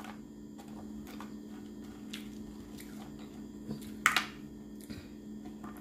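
Close-up eating sounds of someone eating french fries: soft chewing, squishy mouth noises and scattered small clicks, with the loudest cluster about four seconds in. A steady low hum runs underneath.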